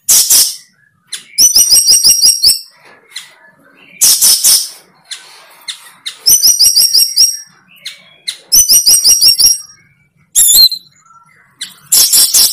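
A bird chirping loudly: phrases of rapid, high chirps about every two seconds, alternating with short harsher calls.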